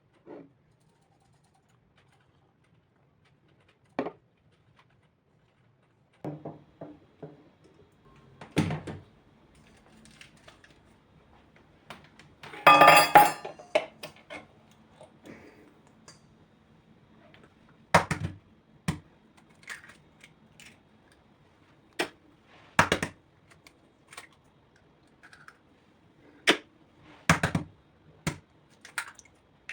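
Kitchen utensils and dishes being handled: scattered knocks and clinks, with one longer, louder scraping or rustling sound about thirteen seconds in.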